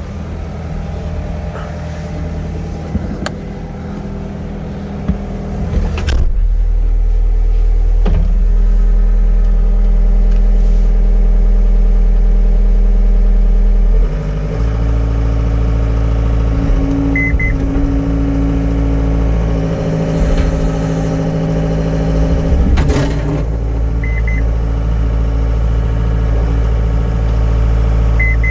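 John Deere 324E skid steer's Yanmar 3.3 L four-cylinder diesel running. It gets louder about six seconds in and its note changes about halfway through, with a few knocks and a few short high double beeps in the second half.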